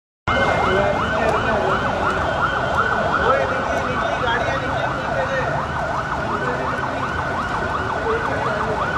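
Emergency vehicle siren in a fast yelp, its pitch sweeping up and down about three times a second, over street noise. It starts a moment in.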